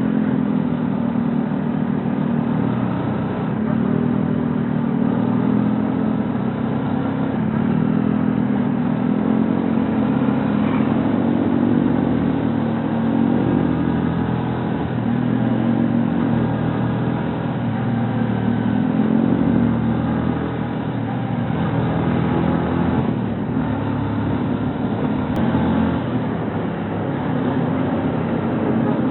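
Rouser NS125 FI motorcycle's single-cylinder engine running under way, heard from the rider's position. Its pitch rises and falls over and over, every few seconds, with the throttle.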